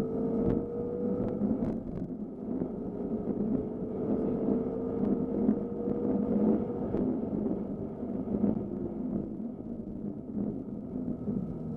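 BMW M5 F10's twin-turbo V8 heard from inside the cabin, pulling down a straight with its note rising slowly and then fading about seven seconds in, over a steady bed of road and tyre noise on a wet track. A few sharp ticks sound near the start.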